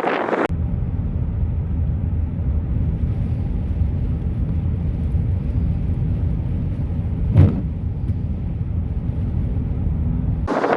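Steady low rumble of a vehicle on the move, with one brief louder whoosh about seven seconds in.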